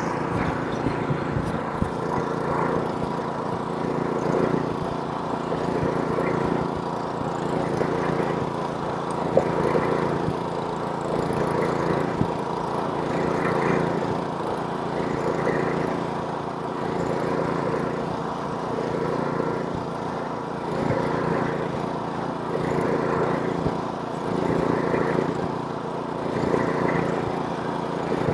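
Snowblower's small gasoline engine running steadily under load, its hum overlaid by a rushing noise that swells and fades every second or two as it works through snow.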